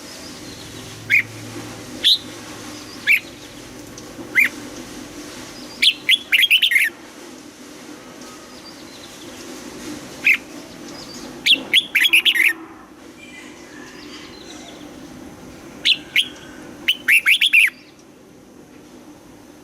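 Red-whiskered bulbul singing: single short chirps about once a second, then three bursts of quick, rapidly changing notes.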